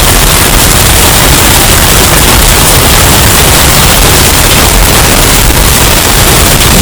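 Hurricane wind sound effect, bass boosted and overdriven into very loud, distorted, steady noise.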